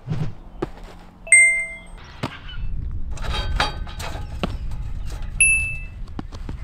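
Two short, bright ding chimes, one about a second in and a higher one about five seconds in, marking each trick level as it is cleared. Between them come a few sharp thumps and scuffs from jumping and landing on grass.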